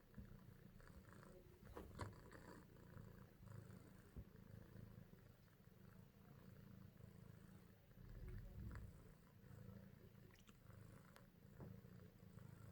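Four-month-old British kitten purring, a faint low rumble that swells and eases in a steady rhythm, with a couple of light clicks about two and four seconds in.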